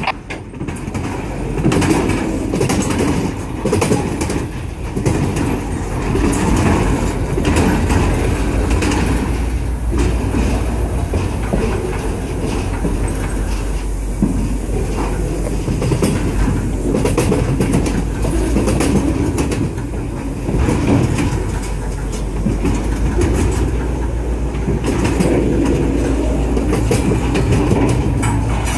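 Loaded military flatcars of a freight train rolling past close by: steel wheels clacking over the rail joints, over a steady low rumble.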